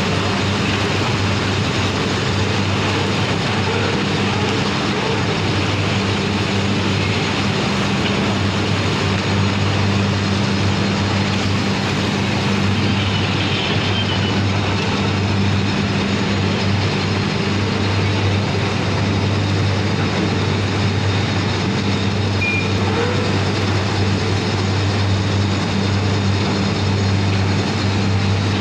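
Heavy engine-driven machinery running steadily, a constant low drone with a second hum above it over a noisy wash.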